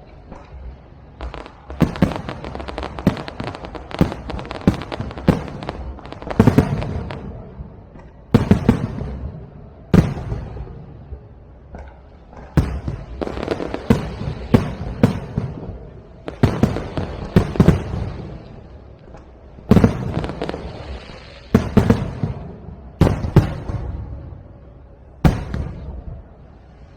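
Aerial fireworks shells going off: sharp bangs in quick clusters every couple of seconds, each cluster trailing off in a low echoing rumble.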